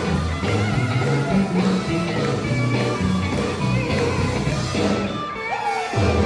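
Live sacred steel band playing an upbeat gospel number, with amplified steel guitar over a steady bass line. A short sliding note near the end.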